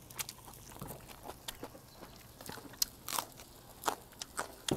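A person chewing a mouthful of grilled hagfish wrapped in a perilla leaf with ginger: soft, irregular wet clicks and crunches, a few louder ones in the second half.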